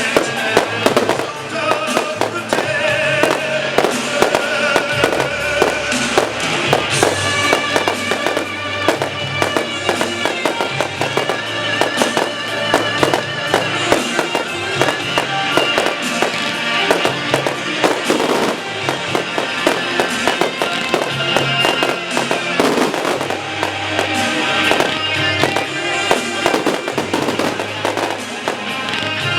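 Fireworks bursting and crackling in quick, repeated bangs over music that plays throughout.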